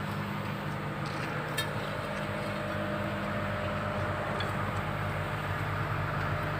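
Komatsu PC200-7 excavator's six-cylinder diesel engine running steadily, with a light click about a second and a half in.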